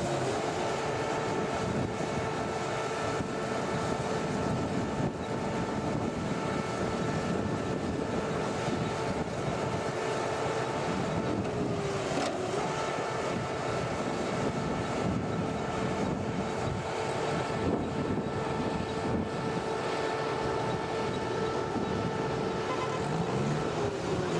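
An engine or motor running steadily, with a steady whine over it that dips in pitch briefly about halfway through and again near the end.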